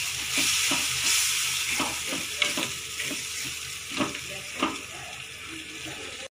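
Thick spice masala with yogurt sizzling in a non-stick kadai as it is fried down, while a wooden spatula stirs and scrapes through it. Several sharp scrapes fall in the middle of the stretch, and the sound cuts off abruptly at the very end.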